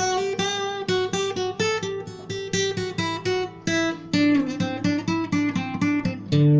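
Instrumental acoustic guitar music: a picked melody of separate plucked notes, several a second, over lower ringing bass notes.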